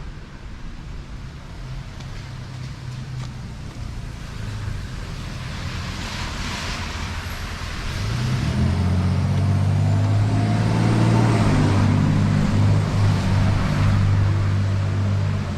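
City street traffic: vehicles passing with tyre hiss, and from about eight seconds in a vehicle engine running close by with a steady low hum, the loudest part, which drops away near the end.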